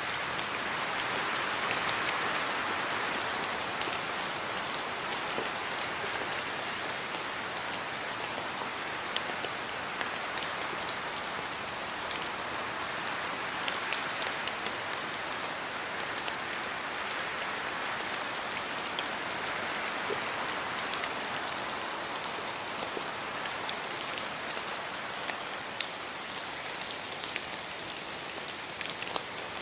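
Steady rain falling, with many small drops pattering on hard surfaces.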